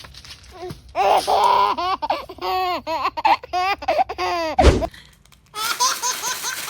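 A baby laughing in a run of short, repeated bursts, then a brief low burst, then after a short pause more short bursts of laughter.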